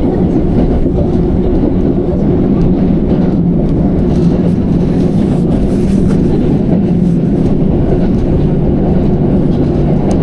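Electric commuter train running at speed, heard from inside the carriage: a steady rumble with a low hum and faint ticks of the wheels on the rails.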